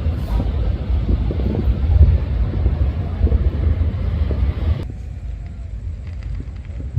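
Steady low rumbling noise of wind buffeting the microphone, which drops away abruptly about five seconds in.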